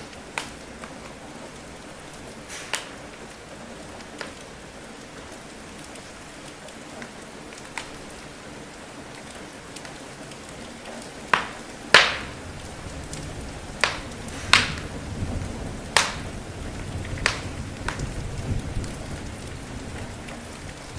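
Steady rain hiss with a wood fire crackling: sharp, irregular pops, a few in the first half and more frequent and louder in the second. A low rumble builds about halfway through.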